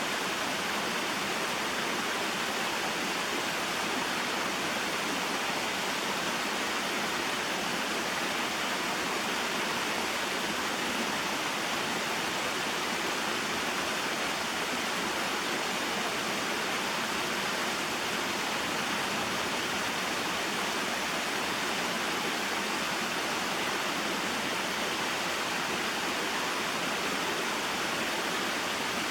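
Small waterfall and stream: a steady, even rush of falling and flowing water.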